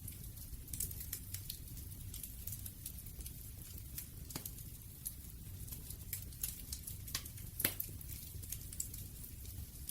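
Campfire burning: a steady low rumble of flame with frequent irregular crackles and snaps of burning wood, a few sharper pops standing out.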